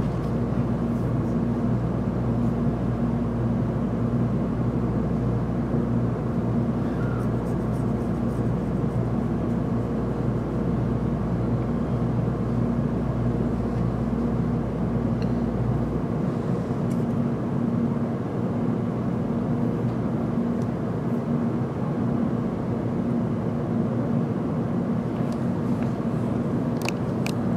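Steady hum and rumble heard inside a Tokaido Shinkansen carriage as the train moves off from a station. The deepest part of the rumble drops away about halfway through, and a few sharp clicks come near the end.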